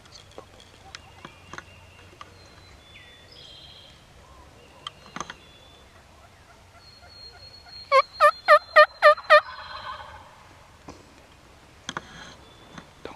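Wild turkey gobbler gobbling once, a loud rattling run of about six quick pulses, a little past the middle. Songbirds chirp faintly around it.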